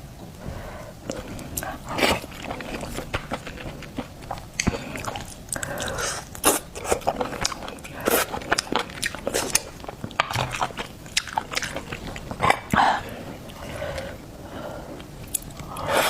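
Close-miked eating of seafood: irregular biting and chewing with crunches, smacks and wet clicks.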